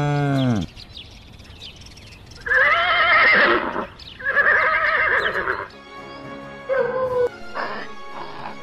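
A horse whinnying twice, each call about a second long with a shaking, wavering pitch, over background music. Before it, the tail of a cow's low moo falls away and stops in the first second.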